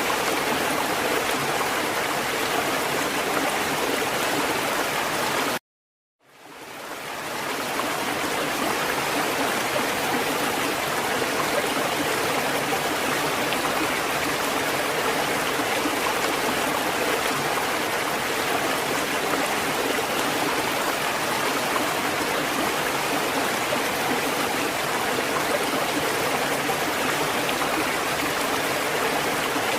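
Steady rushing water with no rise and fall of waves. About six seconds in it cuts out to silence for half a second, then fades back in, like a loop being restarted.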